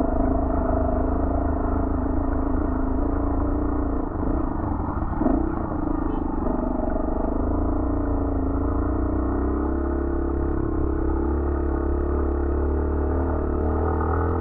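Motorcycle engine running as the bike is ridden, with a steady low rumble; its pitch drops about five seconds in and climbs back gradually a few seconds later as the rider eases off and opens the throttle again.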